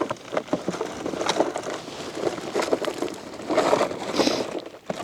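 Footsteps and rustling through wet undergrowth: irregular crackling, brushing steps.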